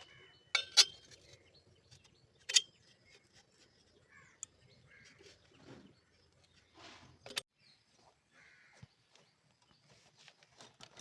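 Several sharp metallic clinks of parts and tools being handled, the loudest near the start and about two and a half seconds in, with faint bird chirps in the background.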